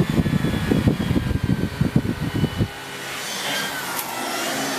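Miele S8730 (C3 Complete) cylinder vacuum cleaner running with its turbo brush head. A loud, rough low rumble cuts off suddenly a little past halfway, leaving the motor's steadier whine, whose pitch shifts as the suction power is turned down.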